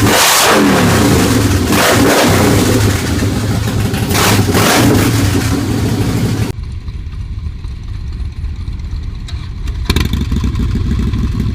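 Harley-Davidson motorcycle engine revving, its pitch rising and falling. About two-thirds through the sound drops abruptly to a quieter, muffled low rumble, with a sharp click near the end.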